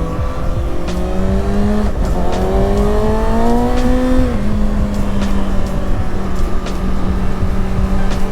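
Kawasaki Ninja ZX-6R's 636 cc inline-four engine running under way, its pitch rising as it pulls for a few seconds, then dropping suddenly about four seconds in and holding steady. A constant low rush of wind noise sits under it.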